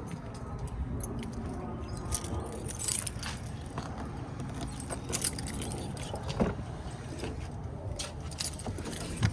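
Vehicle running, heard as a steady low hum, with keys jingling and small clicks and ticks throughout.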